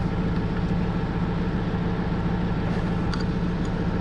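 Steady low hum of an engine idling, unchanging throughout, with a few faint light clicks about three seconds in.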